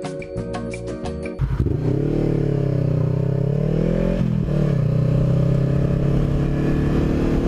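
Background music for about the first second and a half, then a sudden cut to a Honda CBR500R's parallel-twin engine. Its pitch rises, drops back about four seconds in, then holds steady.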